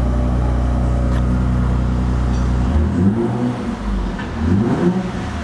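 A 2017 Infiniti Q50's 3.0-litre twin-turbo V6 runs at a steady idle, then is revved, its pitch rising and falling a couple of times in the second half. This is a salvage engine's running test.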